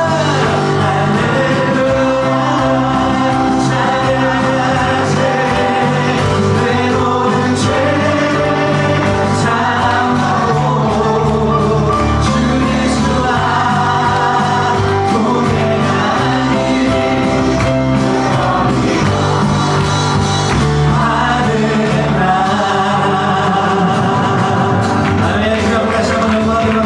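Congregational worship song: voices singing a praise song over a band with steady bass and guitar.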